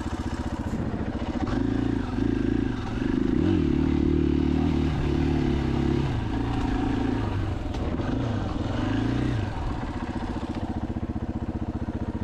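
KTM 500 EXC-F single-cylinder four-stroke engine running at low throttle, then opened up in a few pulls from about two seconds in, its pitch rising briefly near the three-and-a-half-second mark, before dropping back to steady low running near the end.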